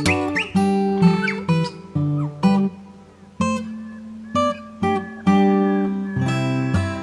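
Background music: acoustic guitar plucking and strumming chords, with a new note or chord every half second to a second.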